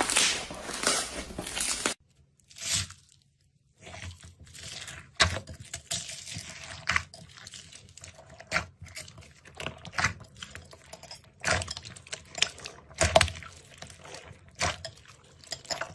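Crunching and crackling of a crunchy material being crushed: dense for the first two seconds, then, after a short near-silent gap, sparser clicks and crackles.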